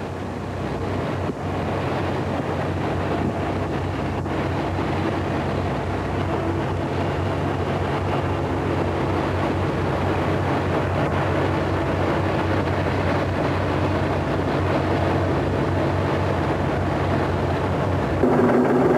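Asphalt paver's diesel engine running steadily with a low hum under a noisy rumble, growing louder with a changed tone just before the end.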